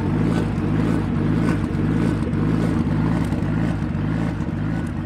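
Nissan RB25DET turbocharged straight-six at the exhaust end, idling lumpily under ECU rotational idle (ghost cam) on injection cut. Fuel is cut one cylinder at a time, so the revs climb from about 950 to the 1100 rpm end point, drop back and repeat, giving a steady rhythmic lope. At the exhaust it sounds half decent.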